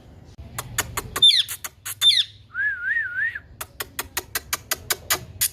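Green ringneck parrot (rose-ringed parakeet) calling: a few sharp clicks, two quick falling squawks, then a wavering whistle. This is followed by a fast run of about six clicks a second.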